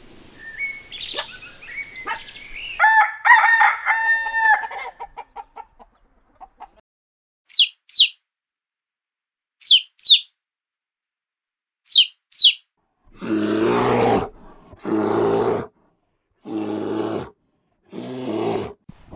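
A rooster crowing once, then three pairs of short, high, falling bird chirps. Near the end come four harsh animal calls, each about a second long.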